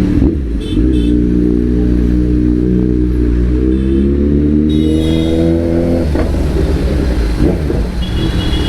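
Motorcycle engine pulling hard, its pitch rising steadily for about five seconds, then dropping suddenly at a gear change or throttle-off before running on.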